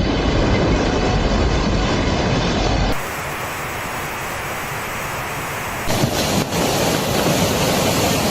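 Loud, steady rushing noise of water and wind buffeting the microphone, changing abruptly twice, about three and six seconds in.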